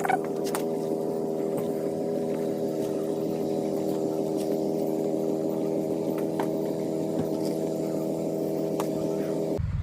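A motor running steadily at one constant pitch, cutting off abruptly near the end.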